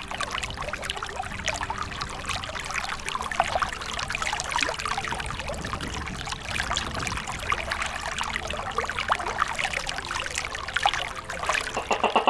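Water splashing and trickling, a steady crackly wash of small splashes.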